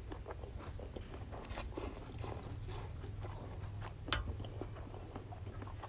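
A person close to the microphone slurping and chewing stir-fried rice noodles, with many small wet mouth clicks and smacks at irregular intervals.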